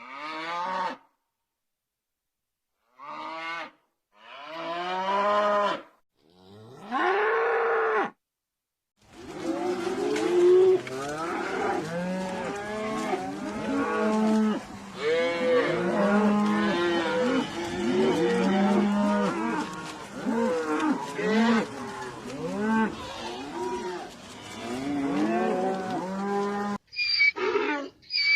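Cattle mooing: a few separate moos, then from about nine seconds many cattle mooing over one another as a herd. Near the end this cuts to a different animal's call.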